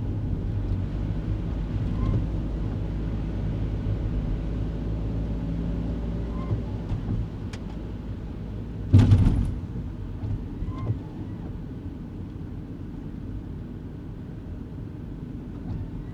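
Engine and road noise heard inside a kei car's cabin, a steady low rumble that eases off after about ten seconds. A single loud thud about nine seconds in stands out above it.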